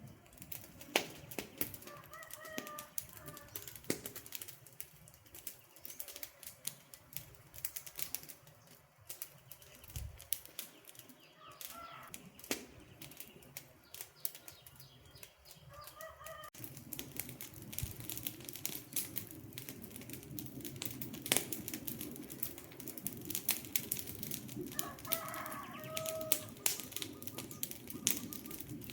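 Campfire crackling with many sharp pops and snaps of burning wood, while a bird calls four times. About halfway through, a fuller low rush of flame comes in suddenly.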